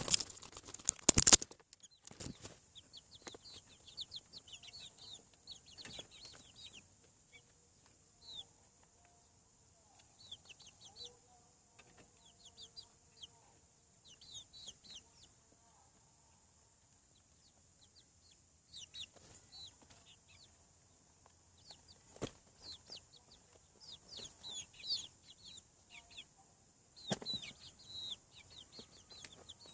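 Young chickens, about seven weeks old, peeping in many short, high, falling cheeps, with a loud burst of wing flapping in the first second or so and a couple of sharp knocks later on.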